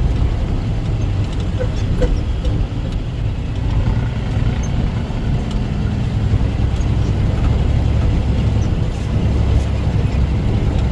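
Dump truck's diesel engine running with a steady low rumble, heard from inside the cab.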